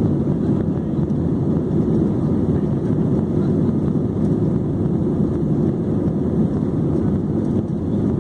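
Steady low rumble of jet airliner cabin noise in flight, engine and airflow noise blended into an even drone.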